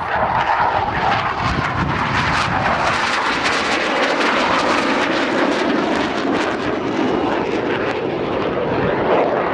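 Aero L-159 Alca's Honeywell F124 turbofan, a loud steady jet roar as the aircraft flies its display. The roar drops in pitch midway and rises again near the end.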